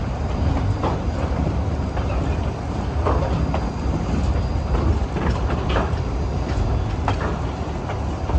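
Train running along the track: a steady low rumble with irregular clacks and knocks from the wheels and cars.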